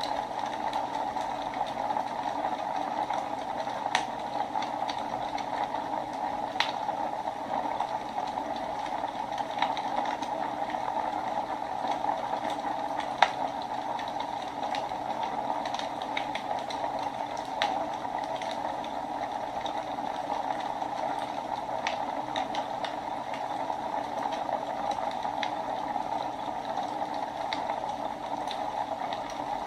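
Wood fire burning in a fireplace: a steady hiss of flames with scattered sharp crackles and pops, one louder pop about halfway through.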